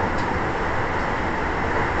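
Toei 10-300 series subway car 10-412 running at speed, a steady rumble and hiss of wheels on rail heard from inside the car, with one faint click shortly after the start.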